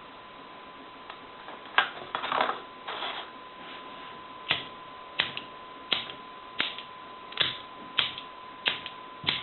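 Butane lighter clicked over and over in attempts to ignite the butane in a paper jet engine, which does not catch. A few sharp clicks come close together, then a steady run of single clicks about every two-thirds of a second.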